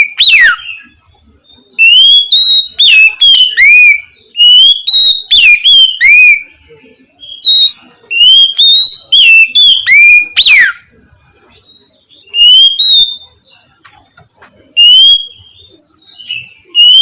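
Oriental magpie-robin (kacer) singing loud, clear whistled phrases of rising and falling slurred notes in the open 'ngeplong' style. The phrases come in bursts of one to three seconds with short pauses between them.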